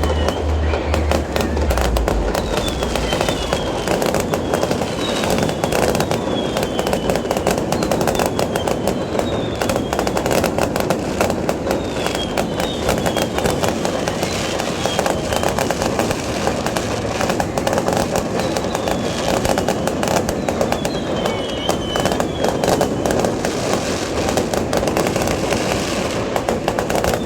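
Dense aerial fireworks barrage: continuous rapid crackling and popping of many shells, with short falling whistles recurring about once a second.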